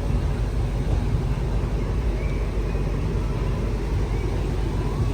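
Steady low rumble of outdoor street ambience with vehicle engine noise, even in level throughout, with faint short high sounds drifting over it.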